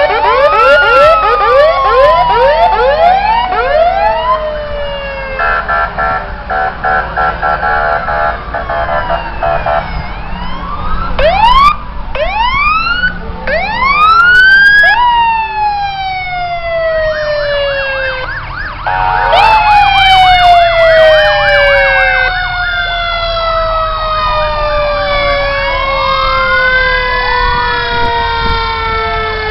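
Several fire truck sirens wailing at once, their rising and falling glides overlapping, some winding slowly down in pitch. A horn sounds in rapid repeated pulses from about six to ten seconds in, and briefly again near nineteen seconds.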